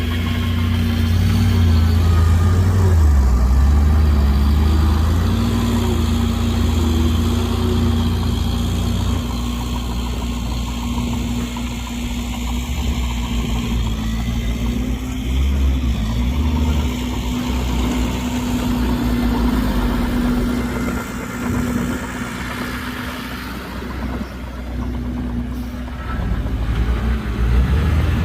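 Heavy diesel engines of earthmoving machinery (dump truck and bulldozer) running, louder for about the first third and then settling to a steadier, lower hum.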